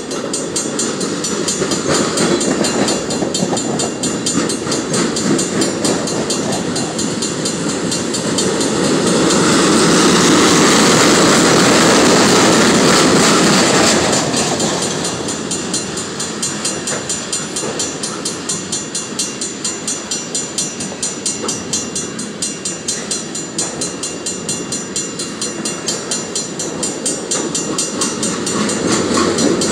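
Empty wind-turbine flatcars of a freight train rolling past, wheels clicking in a quick regular rhythm over the rail joints. About nine seconds in the rumble and hiss swell louder for several seconds, then settle back.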